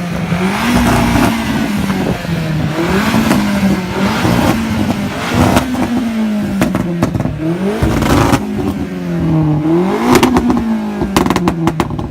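Car engine revving up and down over and over, with sharp pops and crackles, clustered near the end.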